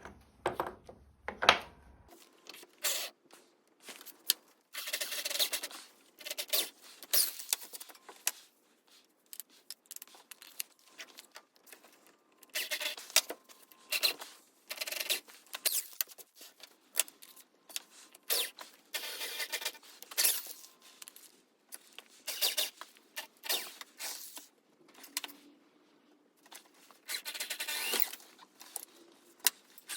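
Irregular clinks, knocks and short scrapes from parts and tools being handled during a fire-pit table build, coming in uneven clusters with brief pauses between them.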